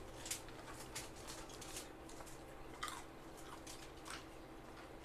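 People eating with their hands close to the microphone: scattered small clicks, crunches and smacks of chewing and of fingers picking through food, a few louder than the rest, over a steady low hum.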